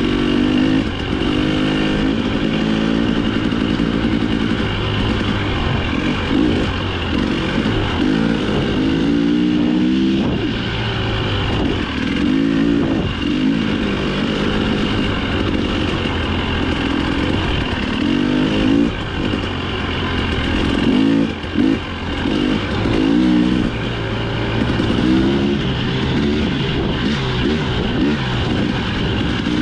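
Dirt bike engine ridden hard, revving up and dropping off the throttle over and over, its pitch climbing and falling every couple of seconds.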